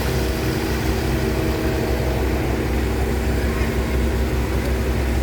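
Hydraulic excavator's diesel engine running steadily under load as it works mud out of a river channel, a low, even engine hum.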